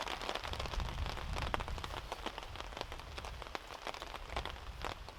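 Heavy rain pattering down in dense, quick drops, with a low rumble underneath that sets in at the start.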